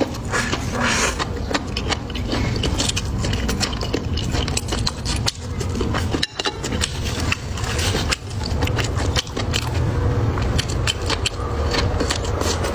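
Close-miked chewing: steady mouthfuls of food being crunched and chewed, with many sharp crackles and wet mouth clicks.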